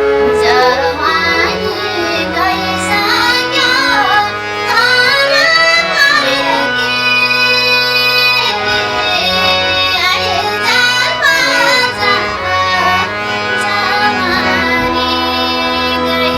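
A woman singing a Nepali folk song in a high, ornamented melody with wavering bends, over steady instrumental accompaniment.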